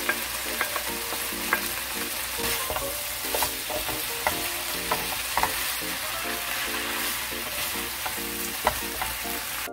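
Spicy marinated pork stir-fry (jeyuk bokkeum) sizzling in a nonstick frying pan as it is tossed with a wooden spatula, which clicks and scrapes against the pan now and then.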